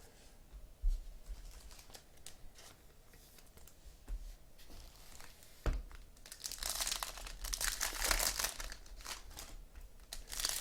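Trading card pack wrappers being torn open and crinkled by hand. It is quiet at first, with a couple of light knocks, then the crinkling turns dense and louder from about six seconds in.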